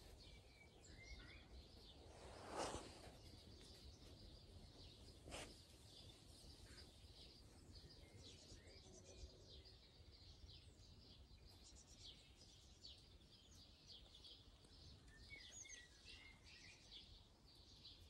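Faint birdsong: many small birds chirping and twittering, with a brief rush of noise about two and a half seconds in and a short click a few seconds later.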